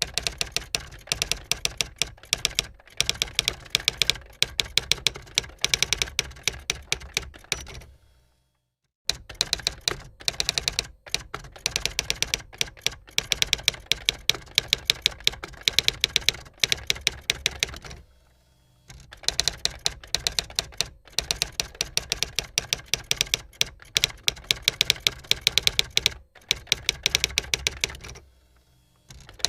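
Typewriter keys clacking in rapid runs of strikes, broken by pauses of about a second three times.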